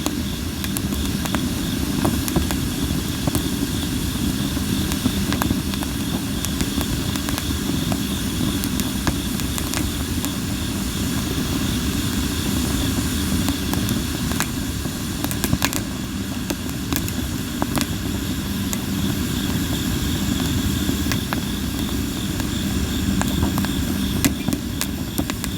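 Campfire of sawara (Japanese cypress) wood crackling, with frequent sharp pops scattered irregularly over a steady low rush of burning.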